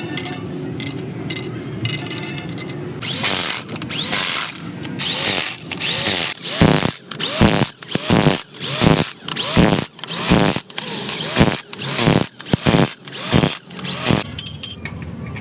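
A handheld power tool working metal, run in about a dozen short bursts of roughly one a second, each spinning up and falling away, after a few seconds of steadier noise. Near the end, light high-pitched metallic ticks take over.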